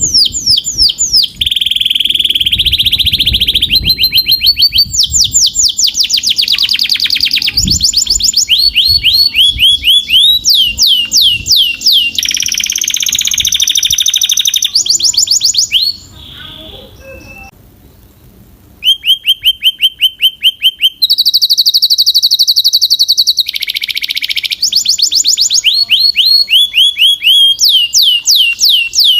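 Domestic canary singing: loud, fast runs of repeated downward-sweeping notes and rapid buzzy trills, phrase after phrase, with a pause of about three seconds a little past the middle.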